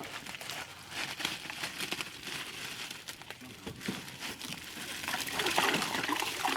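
Plastic bags of ice being handled and torn open, a dense crinkling and crackling of plastic that grows louder in the last second and a half.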